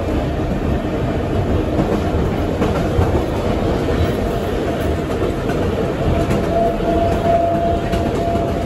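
Vintage wooden electric railcar running along the track, heard from inside the car: a steady rumble of wheels on rail, with a thin steady whine that comes up in the second half.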